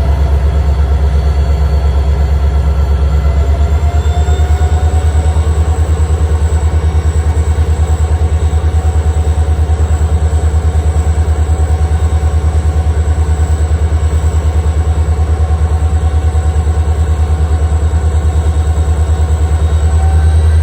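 Norfolk Southern EMD SD40-2's 16-cylinder turbocharged two-stroke diesel running hard under heavy load, a loud, fast-pulsing low rumble with a high whine over it that rises slightly near the end. The locomotive is straining to start a train too heavy for it.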